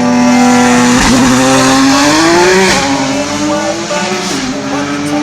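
A car engine revved hard and held at high rpm, its pitch creeping up and then dropping back sharply about three seconds in and again past four seconds.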